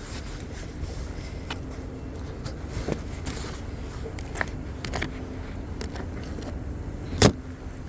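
Car engine running at idle, heard from inside the cabin as a steady low hum, with scattered small clicks and one sharp click about seven seconds in.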